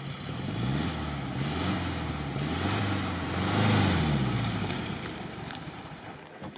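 The ZAZ-968M Zaporozhets's air-cooled V4 engine revving up and down several times as the car works its way through deep snow, then dropping away about five seconds in.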